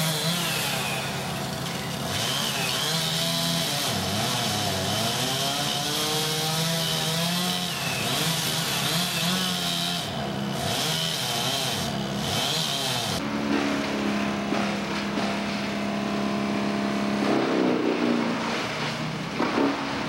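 Engine-driven tree-removal machinery running, its engine pitch rising and falling under changing load, with a high hissing noise that cuts off about thirteen seconds in and leaves a steadier engine running.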